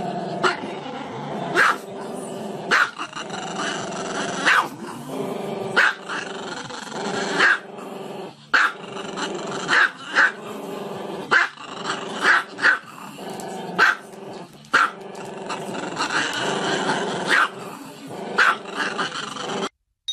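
Small dog growling continuously, broken by sharp barks about once a second; the sound cuts off abruptly near the end.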